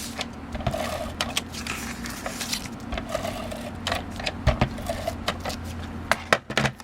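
Paper and card stock being handled and positioned on a work surface: irregular taps, clicks and rustles over a steady low hum.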